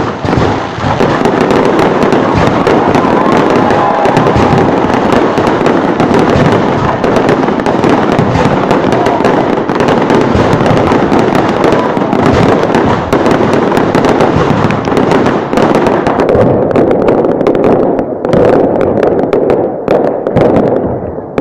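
Fireworks going off in a dense, continuous barrage of crackles and bangs, which thins out into more separate cracks in the last few seconds.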